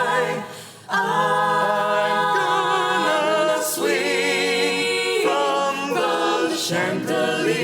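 An a cappella vocal group singing held chords with vibrato, no instruments, with a brief break about half a second in before the voices come back in.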